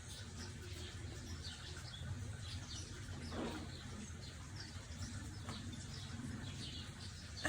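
Faint birdsong: scattered short chirps from small birds, over a low steady background rumble.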